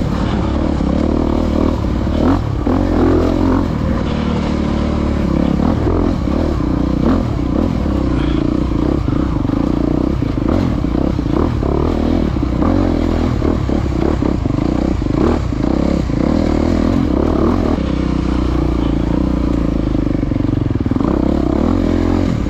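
Off-road motorcycle engine running continuously with the throttle rising and falling, mixed with frequent knocks and clatter from the bike over rough ground.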